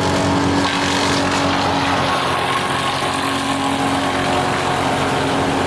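Engine running at a steady speed, its hum holding one even pitch.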